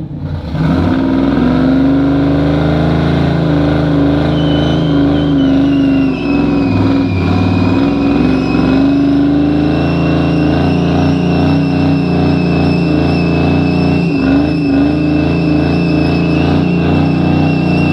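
Truck engine held at high revs during a burnout, loud and steady after it winds up about half a second in, with the spinning tyres squealing as a high, wavering tone from about four seconds in.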